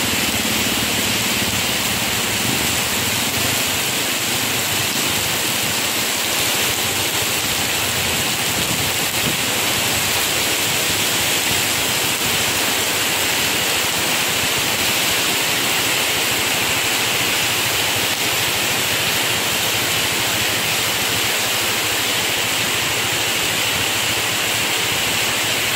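Heavy tropical rain pouring steadily onto a flooded street, an even, unbroken hiss.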